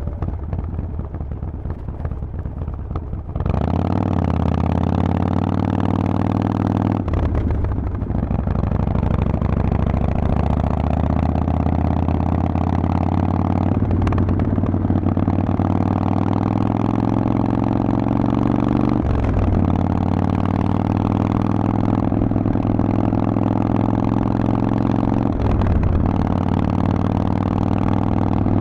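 Harley-Davidson Forty-Eight's air-cooled 1200 V-twin running through a Vance and Hines exhaust. It is softer at first, then opens up under throttle about three seconds in and pulls through four upshifts. Each shift is a short break in the note, and the pitch climbs slowly between shifts.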